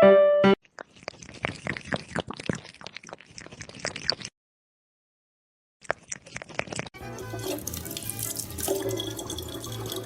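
A piano phrase cuts off, followed by a run of irregular light clicks like drips. After a brief dead gap, a steady rush like running water from a tap sets in about seven seconds in, with a low hum under it.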